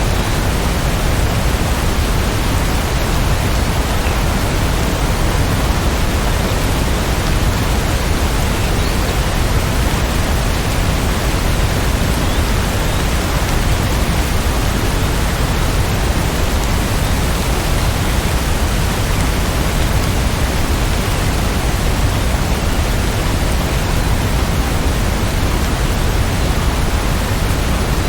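Steady heavy rainfall: a dense, even hiss of rain with no single drops standing out.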